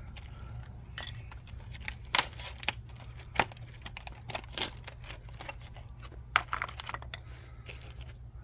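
Irregular crinkling and sharp clicks as new brake pads are handled and checked for fit, over a low steady hum.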